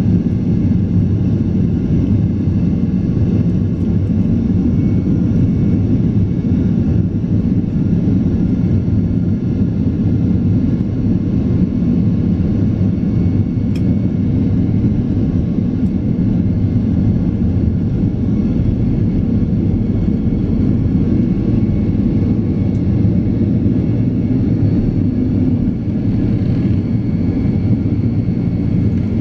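Steady jet engine and airflow noise of a Boeing 767-400ER, heard from inside the cabin: a constant deep rumble with no change in pitch or level.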